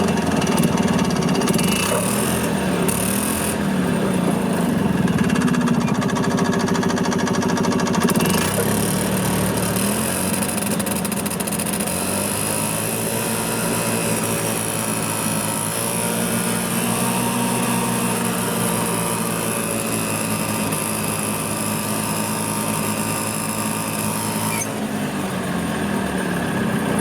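The two-stroke engine of a 1986 Yamaha G1 gas golf cart running after its carburetor was cleaned, the fix for a crank-no-start. Its speed wavers up and down for the first several seconds, then settles to a lower, steadier run.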